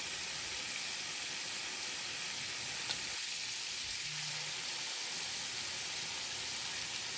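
Chicken wings frying in hot oil, a steady sizzle with one small click about three seconds in.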